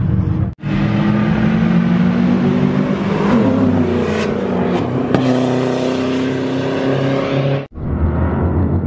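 Car engines in a street drag race, revving hard and accelerating, several engine tones climbing in pitch about three seconds in. Near the end, a lower, steadier engine rumble.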